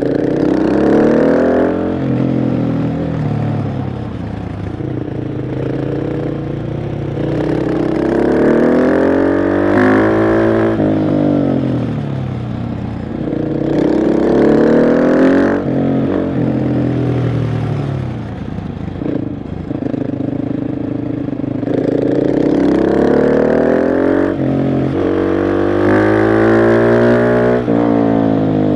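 KTM 690 SMC R's single-cylinder engine under way, revs climbing hard and dropping back about five times as it accelerates and then eases off, with quick breaks in pitch at the gear changes.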